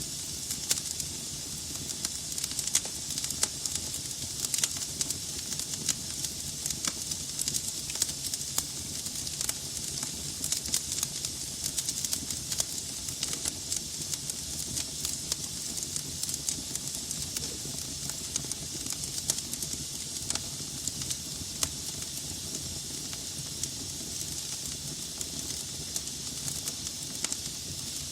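Wood fire burning in a fireplace: a steady hiss of flames with frequent irregular crackles and pops from the burning logs.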